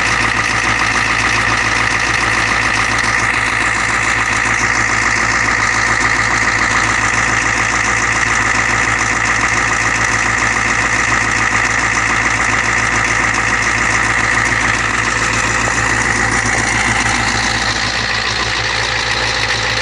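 Ford 6.9-litre International diesel V8 in a 1986 E350 van idling steadily, with an even, rapid diesel clatter, a few minutes after a cold start.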